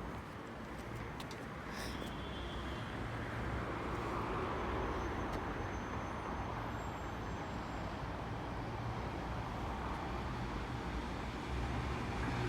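Electric suburban train running through the station, a steady rumble of motors and wheels on rail that swells slightly a few seconds in.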